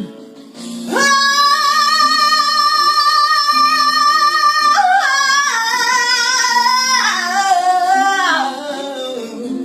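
A woman's singing voice holding one long high note for about four seconds, then stepping down through several lower notes in a wordless run, over a soft backing accompaniment.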